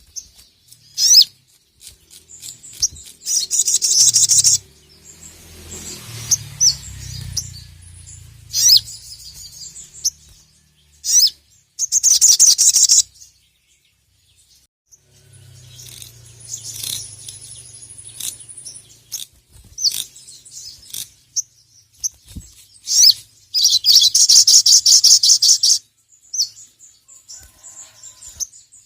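Brown-throated sunbird (sogon) singing hard: sharp high chirps broken by rapid, dense chattering trills of one to two seconds, three of them, the longest near the end.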